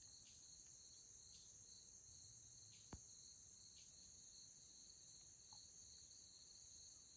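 Faint, steady chorus of crickets, a continuous high trill, with a single sharp click about three seconds in.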